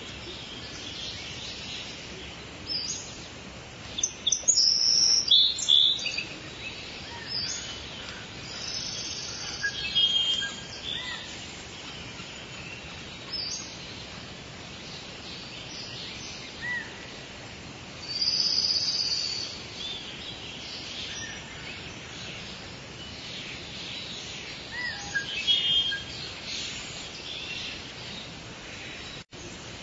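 Steady rain falling, with songbirds chirping over it in short, scattered high calls. The sound cuts out for an instant near the end.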